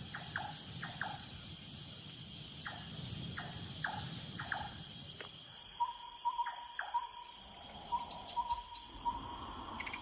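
Steady insect chorus of crickets. In the first half there are short scattered chirps, and from about six seconds in a single short note is repeated over and over at an even pitch.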